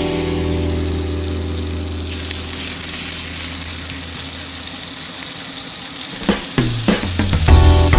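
Sliced beef frying in hot oil in a pan: a steady sizzle.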